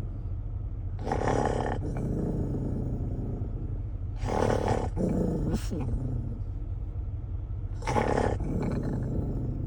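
Harley-Davidson V-twin motorcycle engine running with a steady low rumble, revved in three short throttle blips about three seconds apart; after the second the pitch falls away as the revs drop.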